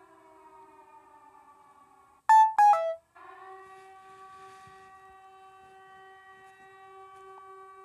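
Eerie electronic drone of several held tones. About two seconds in it breaks for two loud, short synthesizer-like notes stepping down in pitch, then the drone comes back steady.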